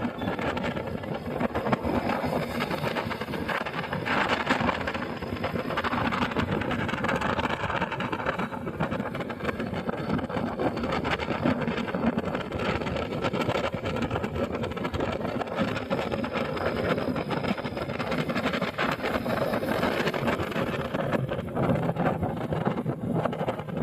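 Motorcycle being ridden: steady engine and road noise, with a low engine hum coming up near the end.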